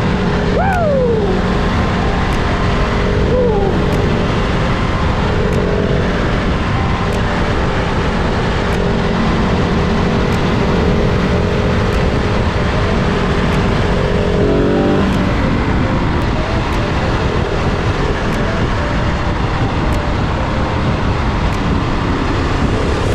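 Motorcycle riding at a steady cruise with heavy wind rush over the rider's microphone and the engine's steady drone underneath. The engine note changes in steps about two thirds of the way through, and there are two brief falling whines near the start.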